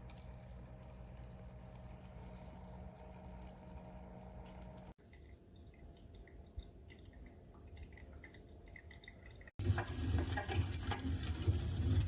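Water dripping and trickling in a small ultrasonic humidifier's water-fountain display, over a steady low hum. The sound cuts off abruptly twice and is louder for the last couple of seconds.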